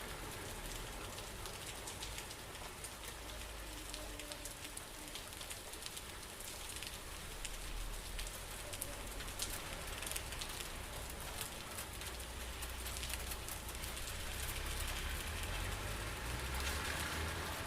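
Steady rain falling on a surface, with many individual drops ticking sharply through the hiss. A low rumble underneath grows stronger over the last few seconds.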